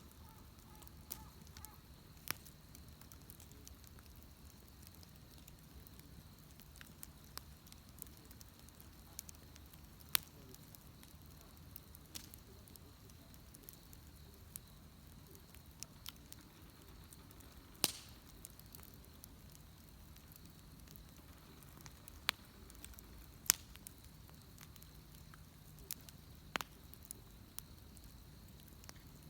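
Wood bonfire crackling: sharp pops and snaps at irregular intervals, a few of them louder, over a low steady hiss and rumble of the burning fire.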